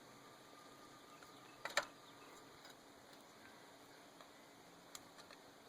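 A sharp double click about two seconds in and a faint tick near the end over quiet room tone: a small hand tool tapping on the engine's valve parts while the valve keepers are worked loose.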